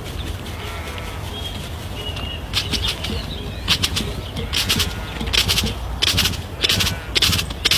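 A bird's wings flapping in several short, rapid bursts, starting about two and a half seconds in, over a steady low rumble.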